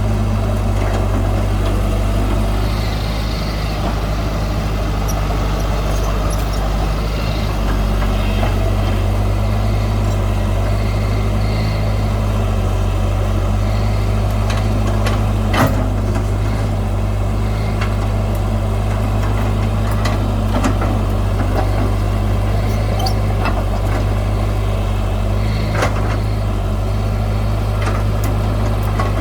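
Heavy diesel earthmoving machinery running steadily, with a few sharp metallic knocks now and then.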